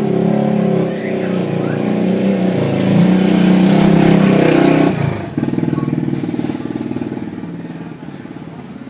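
A motor vehicle engine running, growing louder, then dropping suddenly about five seconds in and fading away with a pulsing note.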